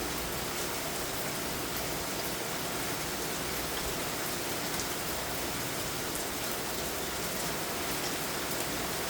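Heavy rain pouring down steadily, an even hiss of drops on surfaces.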